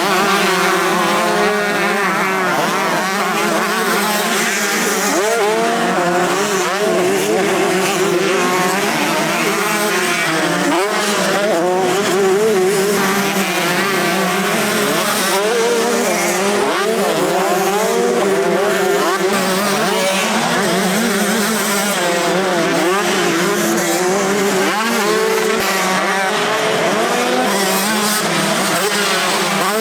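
Several 125cc two-stroke motocross bikes racing on track, their engines revving up and down over and over as riders open and shut the throttle and shift through the gears.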